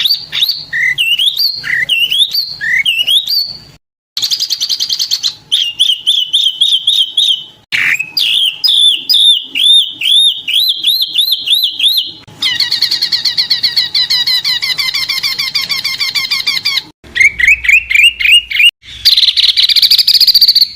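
Small songbirds' songs spliced one after another: series of sharp, high chirps and whistled notes, then a long rapid trill in the middle. Each bird's segment cuts off abruptly and another starts every few seconds.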